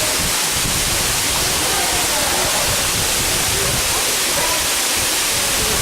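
Steady, loud rushing of a waterfall, with faint voices under it.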